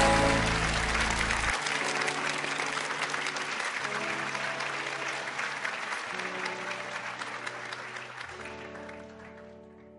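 Crowd applauding over background music with long held chords and a bass line; the clapping and music fade away together toward the end.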